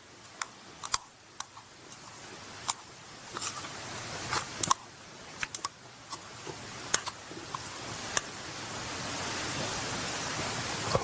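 Meat sizzling over a charcoal grill: a hiss that grows steadily louder, with scattered sharp pops and crackles.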